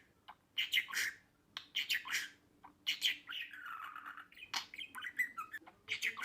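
Budgerigar chattering: quick clusters of short, squawky chirps, with a longer warbling stretch about halfway through.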